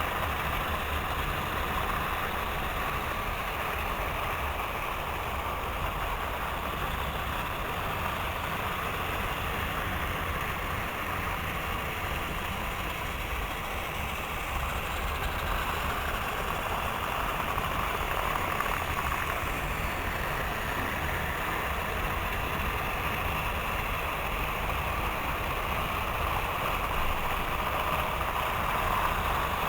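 Several model trains running together on track, a steady whir of small electric motors and wheels rolling over rails with a constant fine clatter.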